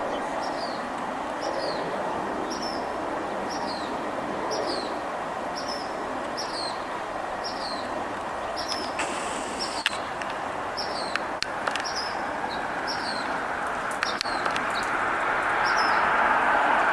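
A small bird repeating a short, high, falling chirp about one and a half times a second, over a steady rushing background noise that grows louder near the end.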